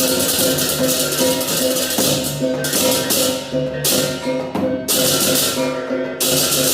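Balinese baleganjur gamelan playing: a dense wash of clashing cengceng cymbals over ringing pitched gong-chime tones and drums. The cymbals cut out suddenly for short breaks about three times, while the pitched tones carry on.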